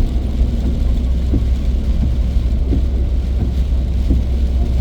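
Steady low drone of a car's engine and tyres on a wet road, heard inside the cabin, with a faint short sweep repeating about every second and a half.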